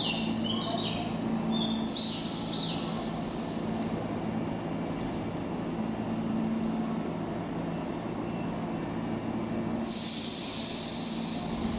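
Electric train at a station platform with a steady low hum, and a sudden burst of hiss about two seconds in and again near the end. Birds chirp repeatedly over the first three seconds.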